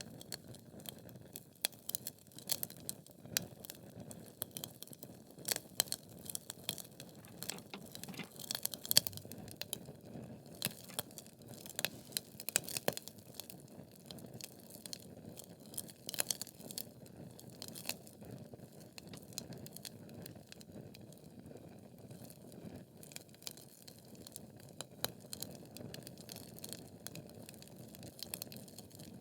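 Wood fire burning in a fireplace: logs crackling with irregular sharp pops and snaps over a soft low rush of flame.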